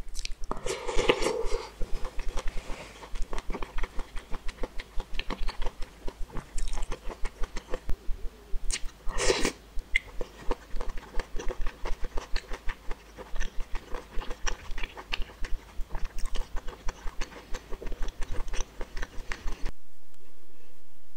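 Close-miked eating sounds of spicy instant noodles with enoki mushrooms: wet chewing and rapid mouth clicks, with two louder moments, about a second in and about nine seconds in. The eating sounds cut off suddenly near the end.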